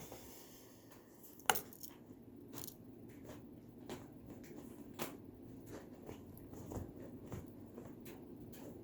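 Scattered light clicks and taps, one sharper click about a second and a half in, over a low room hum.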